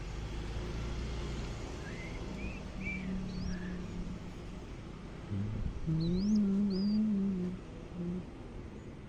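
Young zebra dove giving low, wavering cooing calls, loudest about six seconds in, with short high rising chirps above them.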